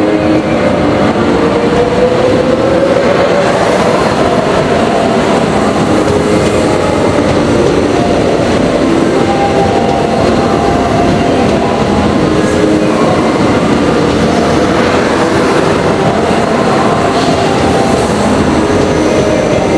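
JR West 681-series limited-express electric train moving along the platform road, running out of service, with a steady rumble of wheels on rail. A whine rises in pitch a few seconds in.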